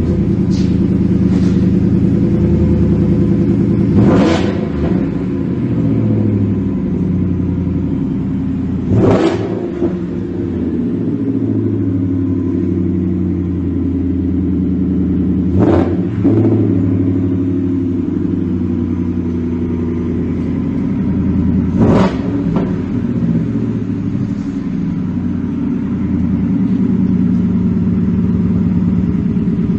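2018 Ford F150's 5.0-litre V8 idling through a Flowmaster Super 44 cat-back dual exhaust with the resonator removed, just after start-up. The throttle is blipped four times, about every five to seven seconds, each a quick rev that falls back to a steady idle.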